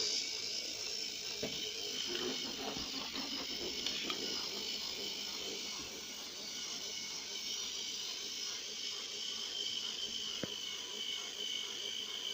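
Small battery-powered toy train motors running steadily, a thin high whine over a hiss, with a few light clicks in the first few seconds.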